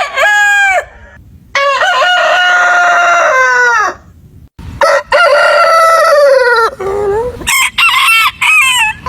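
Roosters crowing: two long crows, each falling away in pitch at the end, with shorter calls before and after them.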